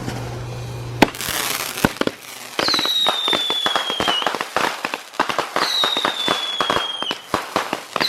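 A consumer firework cake firing. There is a hissing rush about a second in, then dense crackling and popping. Three whistling shots each give a slightly falling whistle about a second and a half long.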